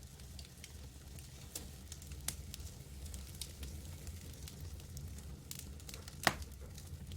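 Campfire burning, with scattered sharp crackles and one louder pop about six seconds in, over a low steady rumble.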